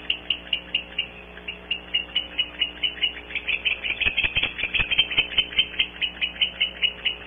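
Barn owls twittering: a fast run of short high chirps, about five a second, growing denser around the middle, with a few knocks about four to five seconds in.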